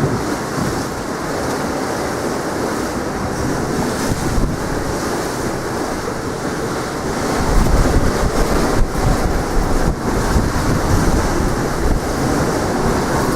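Strong wind buffeting the microphone over sea waves washing ashore. The low wind rumble turns heavier and gustier about halfway through.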